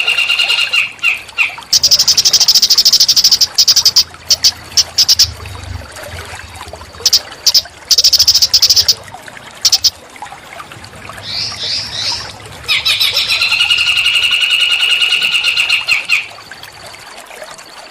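A small songbird singing in loud, rapid, buzzy trills. Long trilled phrases alternate with short stuttering bursts of chirps and a few quick falling notes, with brief pauses between phrases.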